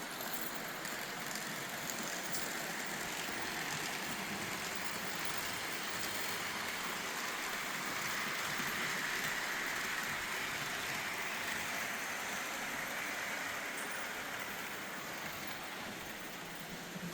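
Märklin model trains running on the layout: a steady rushing whir of small motors and metal wheels on the track, growing louder in the middle as a train comes close and easing off toward the end.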